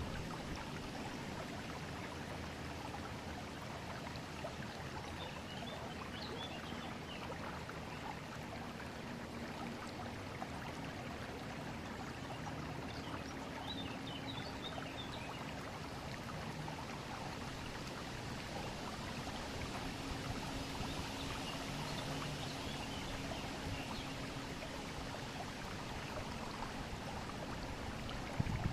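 River water flowing steadily, with faint high chirps here and there and a brief louder burst right at the end.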